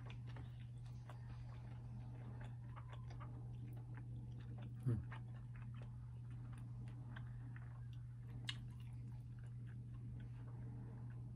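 A person chewing food, with faint scattered mouth clicks and smacks over a steady low hum. About five seconds in there is one short sound that slides down in pitch, the loudest thing here.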